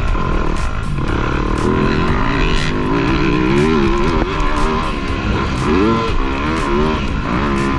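Motocross dirt bike engines running on the track. The engine pitch rises and falls repeatedly as the throttle opens and closes.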